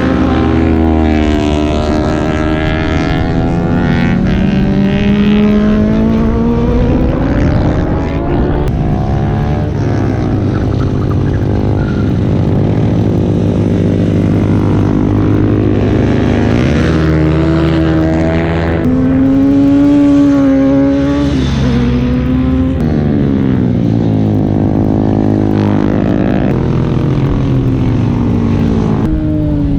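Several superbike engines revving hard, the pitch climbing under acceleration and dropping at each shift or as the bikes go by, several at once.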